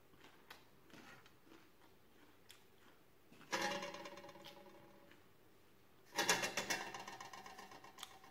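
Crunching into crispy fried grasshoppers: two bouts, about three and a half and six seconds in, each a quick run of crackles that fades over a second or two.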